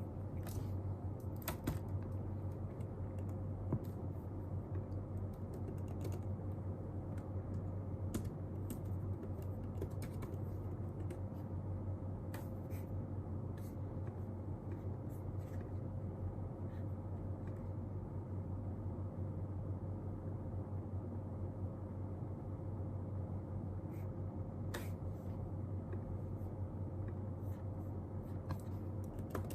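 Scattered keystrokes on a keyboard, in bursts near the start and near the end with only a few in between, over a steady low hum.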